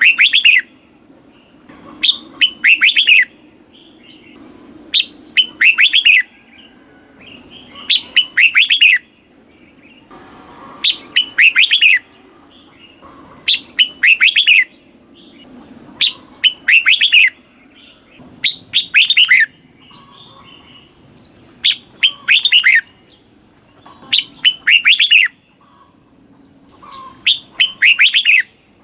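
Red-whiskered bulbul singing: short loud phrases of quick bright notes, repeated about every two and a half to three seconds, around eleven phrases in all.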